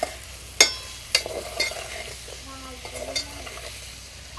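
Chicken liver and gizzard pieces sizzling in a pan with green chillies, curry leaves and ginger paste while being stirred, the spoon knocking sharply against the pan four or five times.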